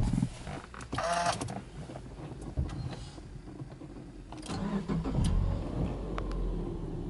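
Subaru Legacy B4 2.5i's 2.5-litre flat-four (boxer) engine starting. After a few clicks, it fires about four and a half seconds in and runs at a fast idle.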